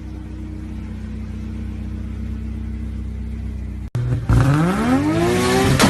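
A car engine idling steadily. After a sudden cut about four seconds in, an engine revs up with its pitch rising steadily.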